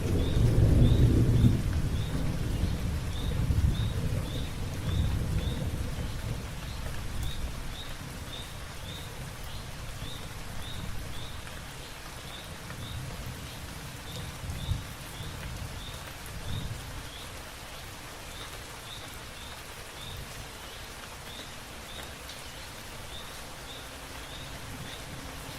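Light rain falling on leaves, a steady patter. A low rumble, loudest at the start, dies away over the first several seconds, and a faint high chirp repeats about twice a second throughout.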